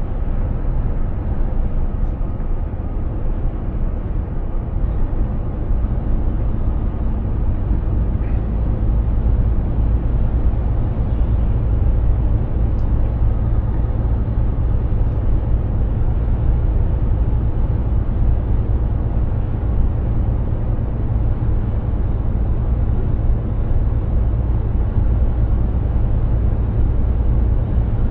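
Mercedes-Benz Actros 2763 truck under way: a steady low engine and road rumble that holds even throughout.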